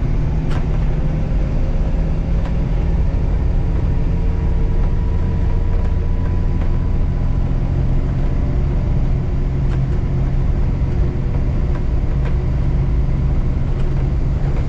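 Diesel engine of an articulated off-road haul truck running steadily while the truck is driven along, a loud, even low drone with no change in pitch.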